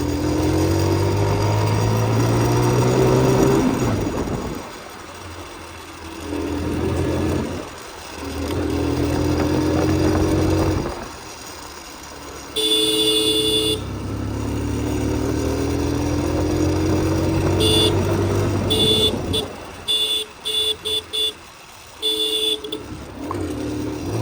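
Motorcycle engine pulling away and accelerating several times, its pitch rising with each pull. A horn gives one long blast about halfway through, then a quick run of short toots near the end.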